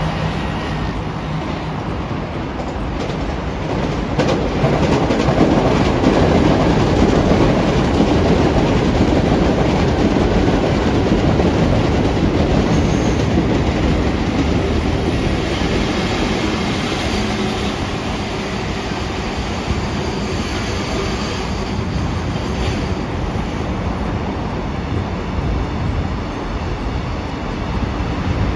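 A train passing: steady rolling wheel-on-rail noise that swells about four seconds in and then slowly fades.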